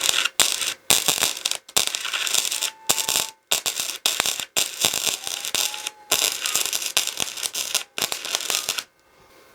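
Welding arc crackling and popping in runs of about a second, separated by short pauses, and stopping shortly before the end.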